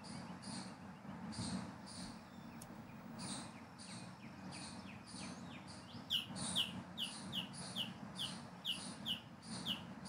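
A bird calling a rapid, regular series of short, high chirps, about two to three a second, which become louder and more sharply downslurred from about six seconds in.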